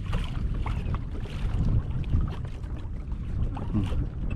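Wind buffeting the microphone in a steady low rumble, with small splashes and water lapping against a small boat's hull.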